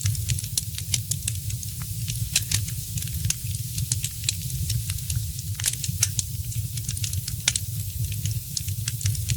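Wood fire crackling in a fireplace: frequent sharp pops and snaps, irregular and several a second, over a steady low rumble.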